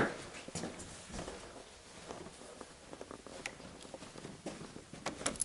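Footsteps on a hard floor with scattered light taps and rustles, irregular and fairly quiet, starting with a sharper click.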